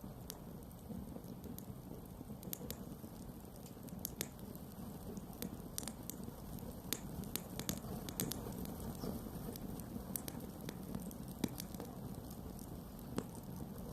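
Campfire crackling: frequent, irregular sharp pops and snaps of burning wood over a low, steady rumble.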